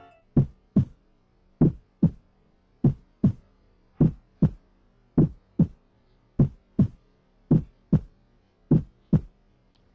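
Heartbeat sound effect: eight double thumps, each pair about 0.4 s apart, repeating about every 1.2 seconds.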